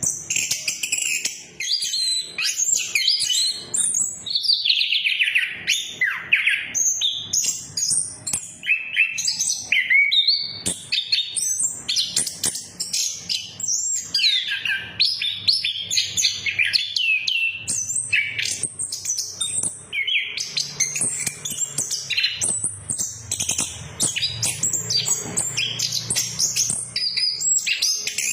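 Chestnut-capped thrush (anis kembang) singing a continuous, rapid, varied song of high chirps and down-slurred whistles, with no pauses.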